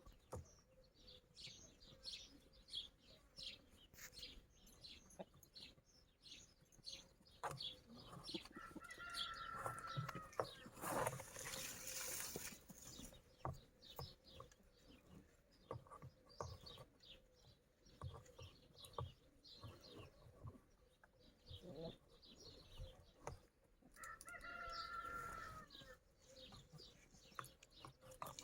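Chickens, faint: scattered clucks and small ticks throughout, a rooster crowing twice (about a third of the way in and near the end), and a short burst of wing flapping just before the middle.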